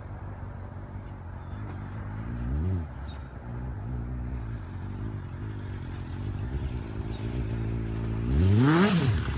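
Kawasaki ZX-6 motorcycle's inline-four engine idling, with loose parts rattling. The throttle is blipped twice, a quick rise and fall in revs about two and a half seconds in and again near the end; the second blip is the louder.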